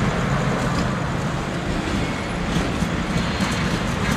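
Circus train passenger cars rolling past at speed close by: a steady rumble of steel wheels on the rails.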